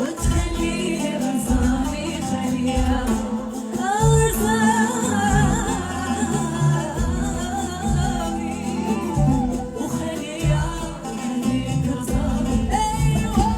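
A woman singing a Moroccan popular song with a band and a steady low beat; her sung line comes in strongly about four seconds in.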